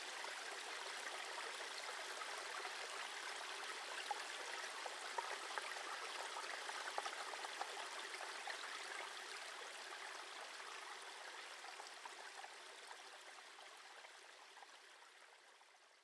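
A small stream babbling and trickling steadily, fading away over the last few seconds.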